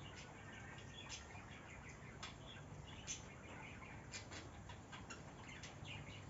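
Faint, scattered short bird chirps and ticks, irregular and several a second, with one louder chirp about three seconds in, over a faint low hum.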